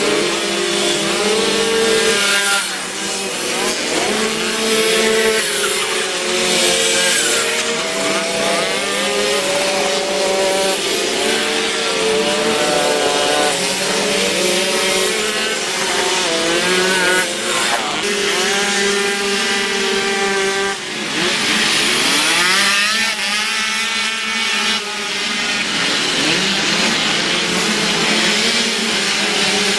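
Several Derbi Variant mopeds' small single-cylinder two-stroke engines racing, revving up and dropping back repeatedly as they pass one another, with overlapping rising and falling engine whines.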